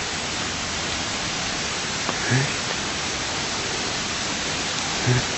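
Steady rush of falling water from a waterfall in a garden stream valley. Twice, about two seconds in and near the end, a brief low voice-like sound cuts through.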